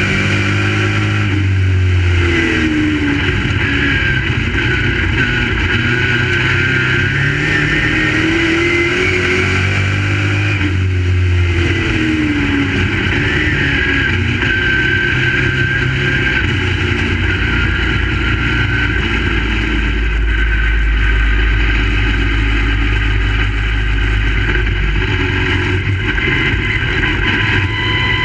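Dirt-track crate late model race car's V8 engine running hard, its revs falling and rising again twice, then holding a steadier low rumble in the second half.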